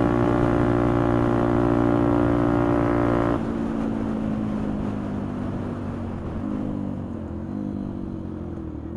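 Motorcycle engine with an aftermarket exhaust running steadily at cruising revs, then the throttle is shut about a third of the way in and the engine note falls away on the overrun as the bike slows, with the revs jumping up twice near the end as it is changed down. Wind rushes over the microphone throughout.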